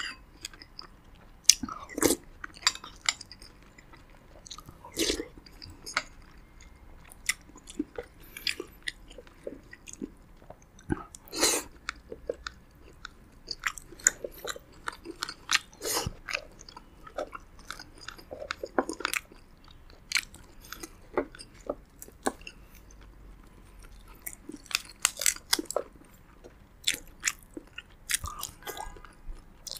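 Close-miked eating: a man chewing and biting roasted pigeon and rice, with irregular wet smacks and sharp crunches.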